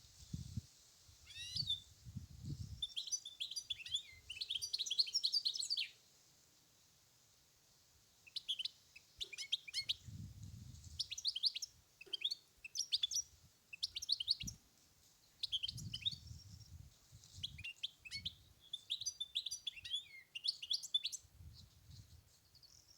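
European goldfinch singing: rapid twittering phrases of high chirps and trills, broken by a pause of a couple of seconds about a quarter of the way in.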